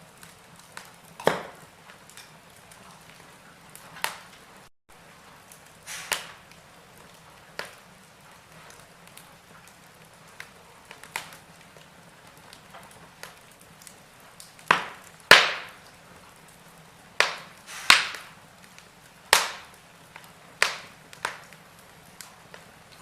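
Wood fire in a fireplace crackling: irregular sharp pops and snaps from the burning logs, about a dozen of them, the loudest about fifteen seconds in, over a faint steady background.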